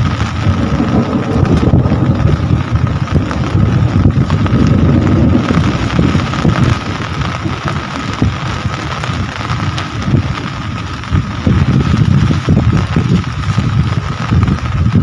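Steady rain falling, with a heavy, gusting low rumble underneath and a faint steady high tone running through it.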